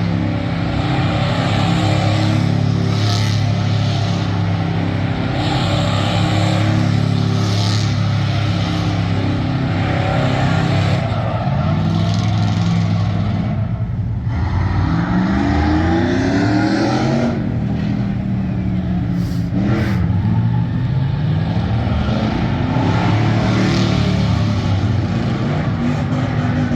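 Truck engine held at high revs for a long stretch. Around the middle it drops off briefly, then its pitch climbs in sweeps as it revs up again, and it dips and climbs once more near the end.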